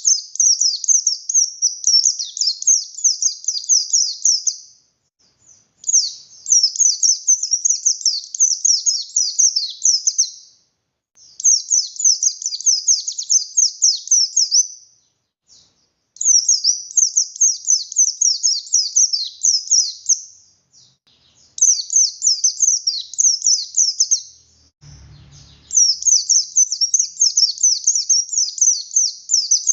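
Pleci buxtoni white-eye singing: loud, rapid strings of high falling notes in bouts of a few seconds, with short pauses between them. Near the end comes a faint, brief low bump.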